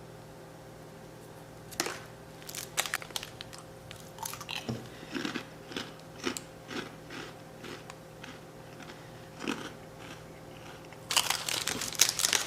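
A person chewing a crunchy snack with irregular crunching bites, then a denser, louder spell of crackling near the end.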